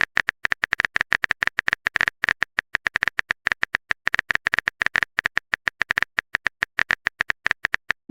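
Rapid, even run of short clicks, about ten a second: a keyboard-typing sound effect of the kind played as chat messages are typed out.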